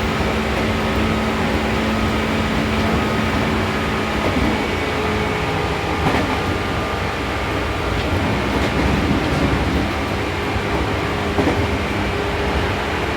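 Seibu New 2000 series electric train running at speed, heard from inside the car: a steady rumble of wheels on rail with a motor hum that fades about four seconds in. A few sharp clicks, typical of rail joints, come later.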